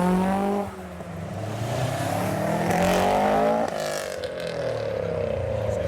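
Nissan Bluebird's engine revving hard as it pulls away. The pitch climbs, drops briefly, then climbs again until it cuts off sharply about four seconds in, and it falls away after that.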